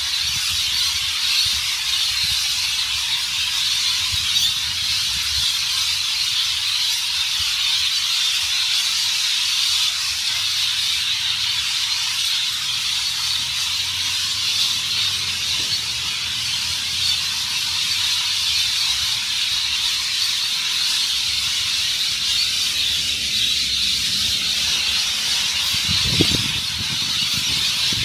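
A large flock of birds screeching and chattering together in a dense, unbroken chorus, with a brief low thump near the end.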